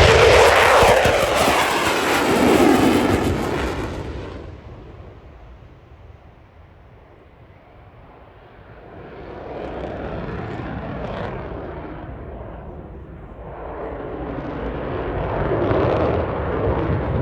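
Eurofighter Typhoon FGR4 jet fighter's twin turbofan engines during a display. A loud pass with falling pitch in the first few seconds fades away by about six seconds, then the jet noise builds again and is loudest near the end.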